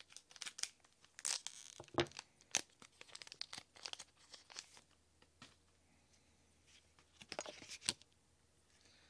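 A Pokémon Gaia Volcano booster pack being torn open, its foil wrapper ripping and crinkling in a run of sharp crackles over the first few seconds and again near the end.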